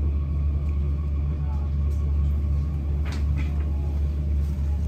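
Steady low rumble of a Hankyu 2300 series electric train running between stations, heard from inside the passenger car, with faint voices in the background.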